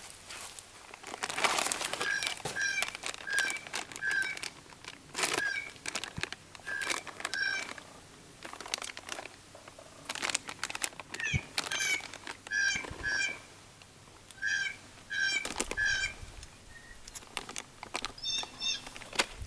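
A bird calling in runs of short, nasal, evenly spaced notes, several groups of three to five, over repeated crinkling and rustling close by.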